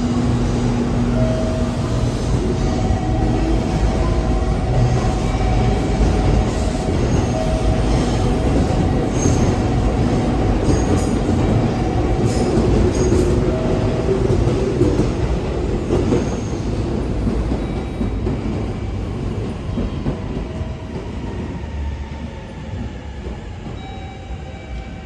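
A train running along a station platform: a loud, steady low rumble of wheels and motors with short squealing tones from the wheels, fading away over the last few seconds.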